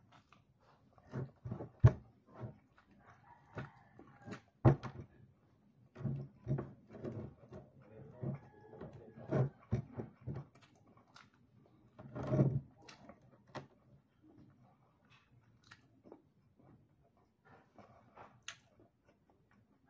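Close-up chewing and mouth sounds of a person eating fried chicken and rice with his hands, in irregular bursts, with a few sharp louder clicks.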